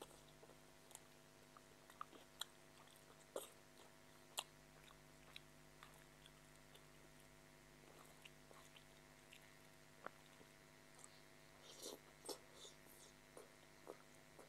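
Faint, close mouth sounds of someone eating chowmein noodles: scattered soft wet clicks and smacks of chewing, with a brief flurry near the end as noodles are sucked in. A faint steady hum runs underneath.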